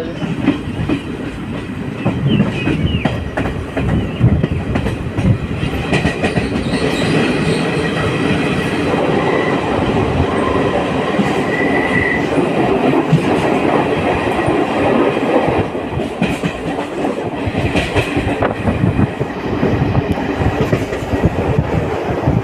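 Passenger train running on the track: steady rumble with the clatter of wheels over rail joints, and a faint high squeal about halfway through.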